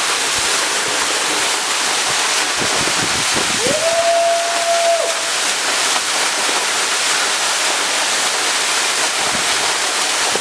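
Large waterfall: a steady, dense rush of falling water. About four seconds in, a single short held tone sounds briefly over it.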